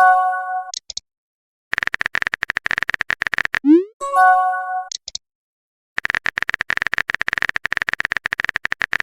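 A looped electronic sound effect: a long run of fast clicks, a quick rising swoop, then a short chime-like chord, repeating about every four seconds.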